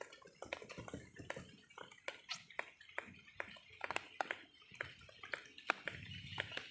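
Irregular light clicks and taps of chicken pieces and bowls being handled while the chicken is coated in flour and dipped in water.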